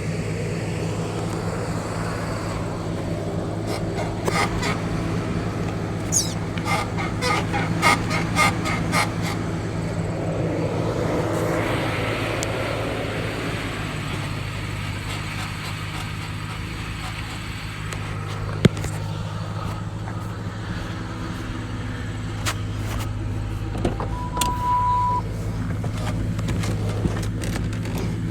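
Ford Crown Victoria with a steady low hum from its running engine, and a run of sharp creaking clicks, about three a second, from about four to nine seconds in, with a few single creaks later: the horrible creaking noise the car has developed. A short steady beep comes near the end.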